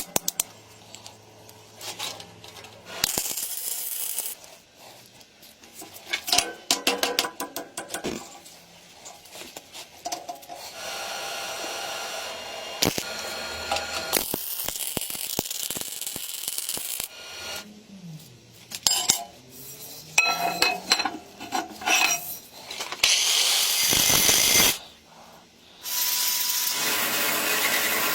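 Metalworking sounds: metal parts clinking and tapping many times, broken by several stretches of a steady tool noise a few seconds long, one of them with a steady whine.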